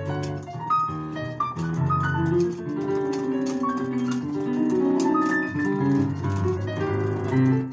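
Piano being played, a busy stream of quick, overlapping notes across the low and middle range.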